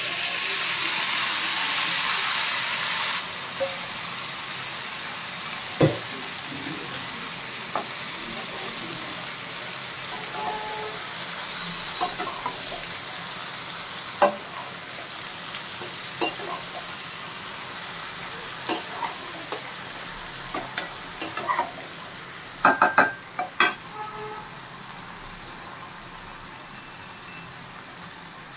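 Taro leaves frying in a non-stick pan: a loud steamy sizzle for the first three seconds as the lid comes off, then a steady, quieter sizzle. A metal spatula stirring the leaves knocks and scrapes against the pan now and then, with a quick run of knocks about three-quarters of the way through.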